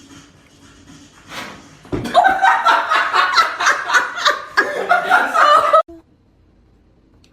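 A person laughing hard in quick, rapid bursts, starting about two seconds in and cut off suddenly near six seconds.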